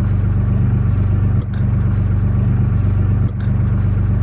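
Motorboat engine running steadily at an even speed, a low hum with a fast regular pulse, dipping briefly twice.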